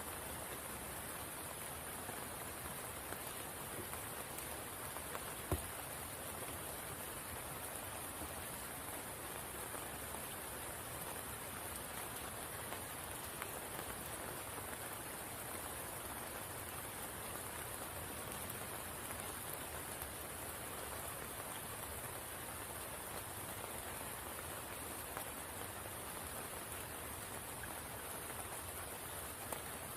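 Steady rain falling on the water of a spring pool: an even hiss with scattered drop ticks, one louder about five and a half seconds in.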